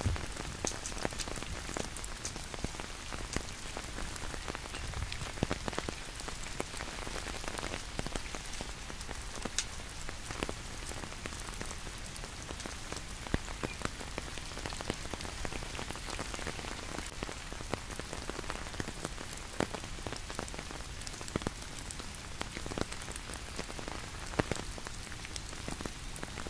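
Steady rain falling, with many separate drops tapping at irregular moments over a constant hiss.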